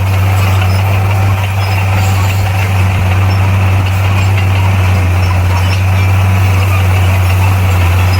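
Bulldozer's diesel engine running steadily under load, a loud, unbroken low drone with a noisy rattle over it.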